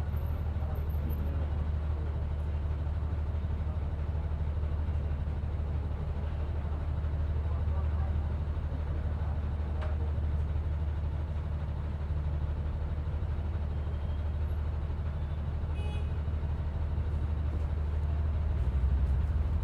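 Steady low engine and road rumble heard from inside a moving city bus, getting slightly louder near the end.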